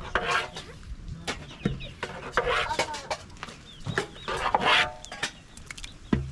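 Chickens clucking in short repeated calls, with a few sharp knocks in between.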